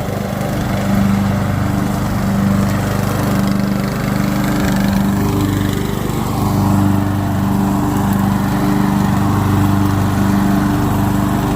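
Riding lawn mower engine running steadily while cutting grass, a constant engine hum that swells and eases slightly as the mower moves.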